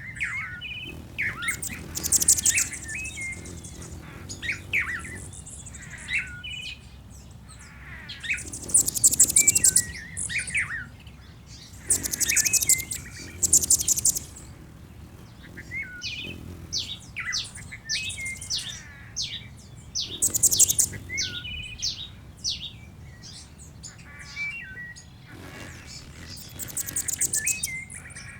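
A chorus of several songbirds: bursts of rapid, very high-pitched trills recur every few seconds, each lasting a second or two, among many shorter chirps and whistles.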